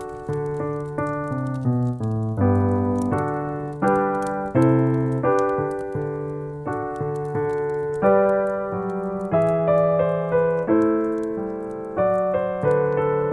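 Background piano music: a slow tune with notes and chords struck about once or twice a second, each left to ring and fade.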